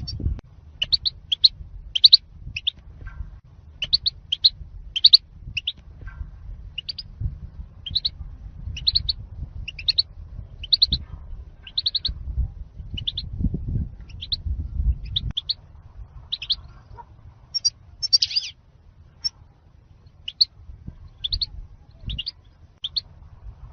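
European goldfinch calling: short, high chirps, often in pairs, repeated about twice a second over a low rumble.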